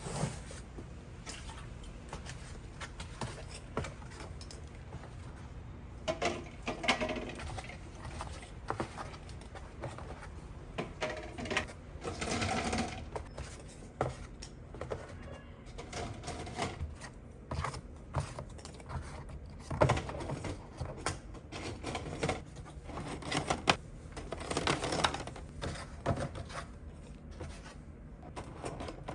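Rapid clicking and knocking of food preparation in a snack-bar kitchen, with a few louder knocks and short stretches of hiss.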